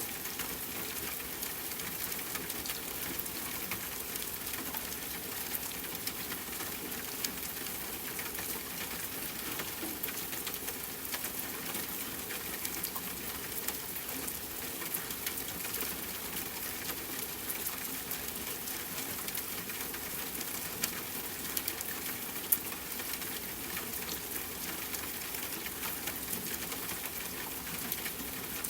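Steady rainfall mixed with a crackling wood fire: a constant hiss with scattered small pops and crackles, one sharper pop about two-thirds of the way through.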